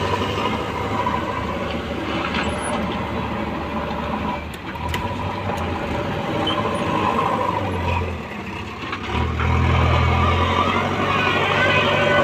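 Heavy diesel earthmoving machinery and trucks running at a loading site, with the low engine note swelling louder about nine seconds in.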